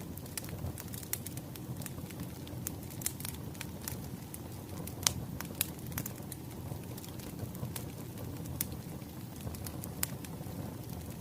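Wood fire burning: a steady low rumble of flames with irregular sharp crackles and pops, one loudest pop about five seconds in.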